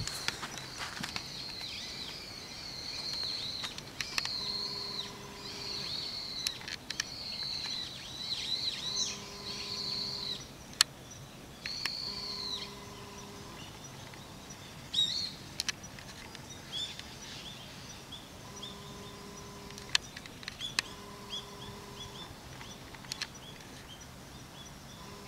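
Birds calling outdoors: a busy run of high warbling calls over the first ten seconds, then scattered short chirps. A faint steady low tone comes and goes several times, with a few sharp clicks.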